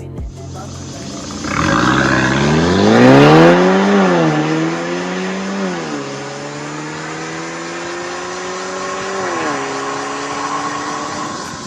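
Mercedes-Benz CLA250's M270 turbocharged 2.0-litre four-cylinder, breathing through an MS-R valved cat-back exhaust, accelerating hard. The revs climb and fall back sharply three times, once at each upshift.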